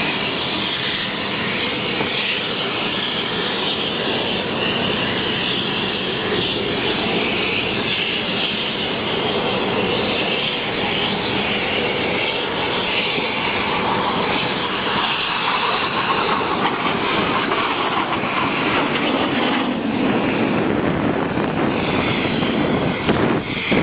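L-15 jet trainer's twin turbofan engines heard during a display pass: a loud, steady rush of jet noise whose pitch drifts lower in the second half.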